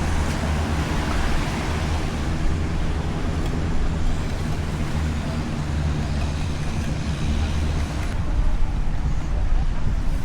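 An engine running steadily with a low, even hum, over a wash of outdoor traffic noise.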